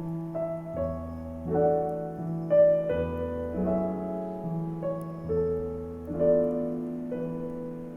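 Gentle piano music from a Christmas-song medley: melody notes over low bass notes that change about every second or two.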